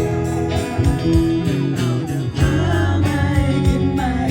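Band music: a short instrumental passage led by guitar over bass and drums, between sung lines of a Thai pop-rock song.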